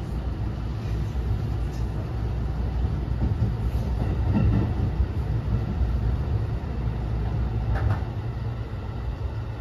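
Inside a JR West 207 series commuter car, an unpowered trailer car, running between stations: the steady low rumble of the wheels on the rails, with a couple of faint clicks.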